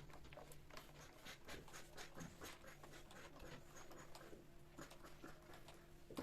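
Faint, irregular light taps, clicks and scratches, several a second, from small objects being handled during household work.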